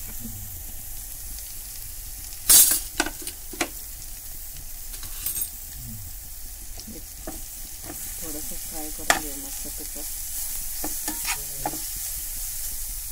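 Grated beetroot frying in ghee in a pan, a steady sizzle, as it is stirred with a perforated steel ladle. Knocks and scrapes of the utensils against the pan come throughout, the loudest a sharp clank about two and a half seconds in.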